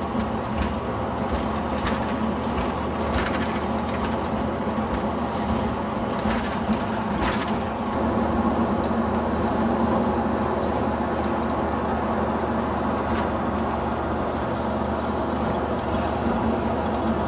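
Steady drone of a vehicle under way, engine hum and road noise together, with a few faint clicks.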